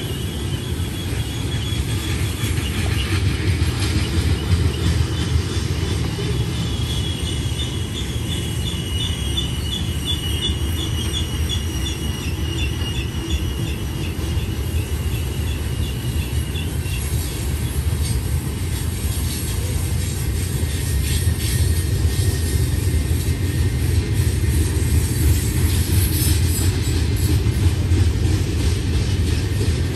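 Freight train cars (tank cars and covered hoppers) rolling past on the rails, a steady heavy rumble of wheels on track. A high, wavering wheel squeal rides over it until a little over halfway through, then fades out.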